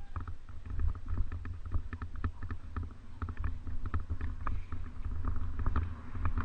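Wind rumbling on the microphone during a mountain bike ride, with rapid irregular clicks and rattles from the bike running over rough ground.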